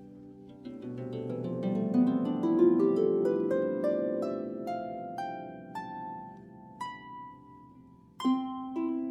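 Solo harp playing: a rising run of plucked notes that ring on and die away, then a fresh full chord struck near the end.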